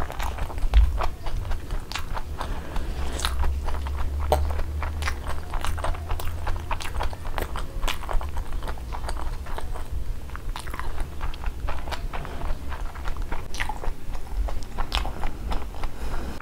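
Close-miked chewing of a big mouthful of fried eggs: continuous, irregular wet clicks and crunches.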